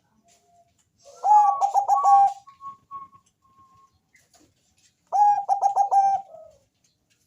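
Zebra dove (Bangkok-type perkutut) singing: two phrases of quick rolling coos, the first about a second in and the second about four seconds later, with a few faint short notes between them.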